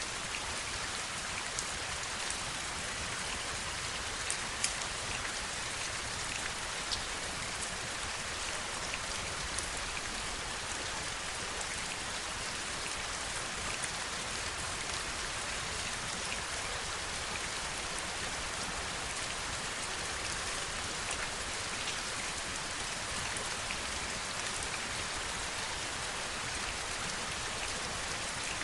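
Steady heavy rain: an even, dense hiss with scattered individual drops ticking sharply through it.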